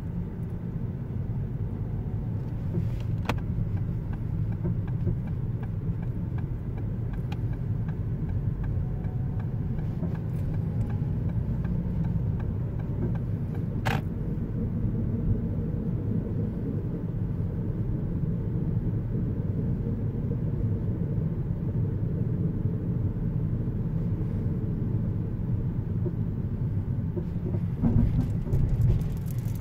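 Ford Focus Mk2.5 driving with a steady low road-and-drivetrain rumble, broken by a few sharp clicks and a louder knocking patch near the end. This is the intermittent chassis noise over uneven road whose cause the owner cannot find.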